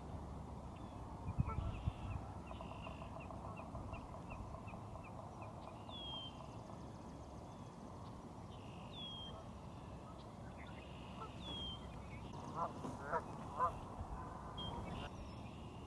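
Geese honking, with three loud honks close together near the end. Other birds call in the background: a run of quick high chirps a few seconds in, and a high down-slurred note repeated three times.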